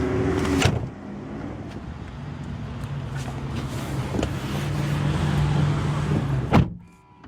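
Steady vehicle and traffic noise with a low hum, a click about a second in, then a car door shutting with a loud thump near the end that cuts the outside noise down to a quiet cabin.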